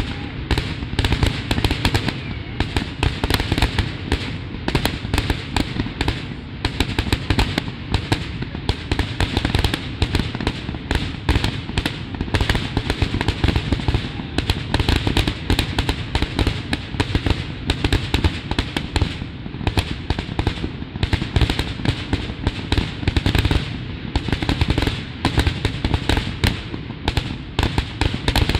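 Aerial fireworks display: many shells going off in a dense, unbroken run of bangs, several a second.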